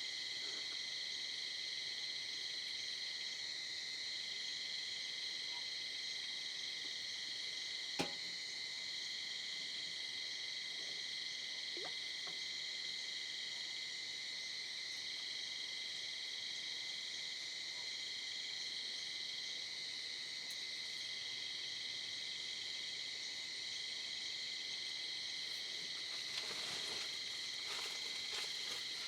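Night chorus of insects and frogs: steady, high-pitched trilling in several layers. A single sharp click comes about eight seconds in, and there is some brief rustling near the end.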